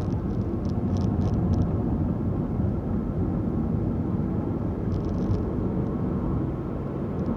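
Steady engine and tyre road noise of a car being driven, heard from inside the cabin, with a few light clicks about a second in and again near five seconds.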